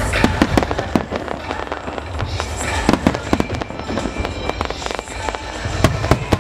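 Aerial fireworks bursting in a rapid, irregular run of bangs and crackles, with music playing underneath.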